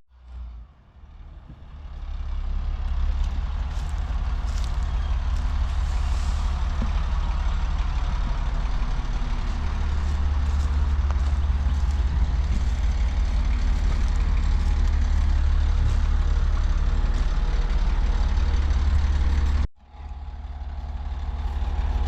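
Diesel engine of a tracked off-road haul truck running hard as it works its way out of mud where it was stuck. The steady low rumble builds over the first couple of seconds and cuts out abruptly for a moment near the end.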